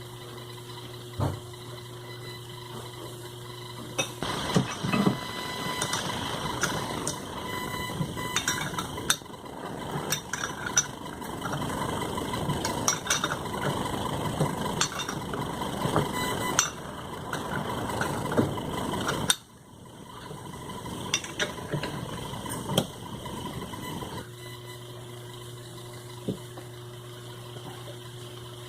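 Sewing machine motor humming steadily at the start and again toward the end. In between is a long stretch of metal clinking and knocking as parts and tools are handled during the repair.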